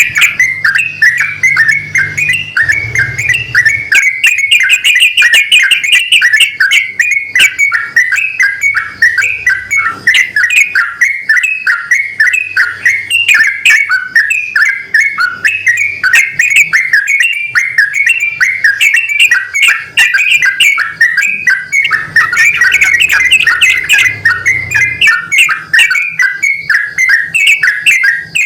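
Yellow-vented bulbuls, a male and a female, answering each other in a dense, unbroken stream of quick bubbly chirps.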